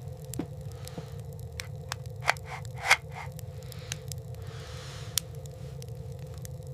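Heavy winter clothing rustling and scraping as it is pulled on and wrapped tight, with scattered small clicks, over a steady low hum. The rustling is loudest in a few short bursts a little before the middle.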